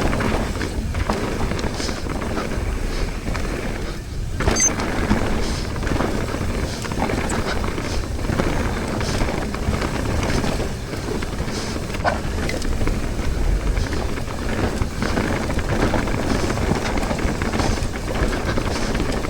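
Mountain bike riding down a dirt trail: steady wind rush over the microphone with tyre noise and short knocks and rattles from the bike over the ground.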